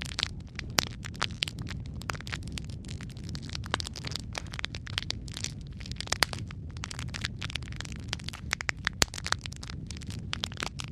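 Wood fire crackling in a fireplace: a steady low rumble of burning under frequent irregular pops and snaps, a few of them louder.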